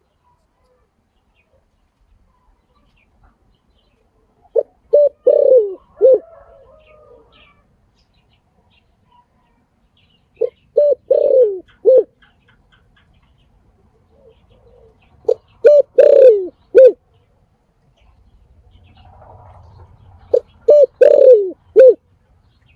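Spotted dove calling: four cooing phrases about five seconds apart. Each is a few short coos around one longer coo that falls in pitch.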